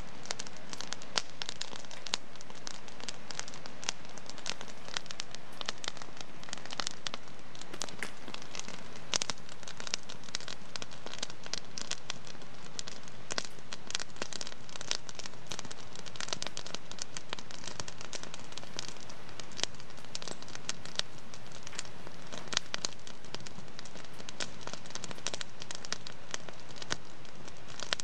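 Wood fire in a fireplace crackling steadily: dense, irregular small pops and snaps over a constant hiss.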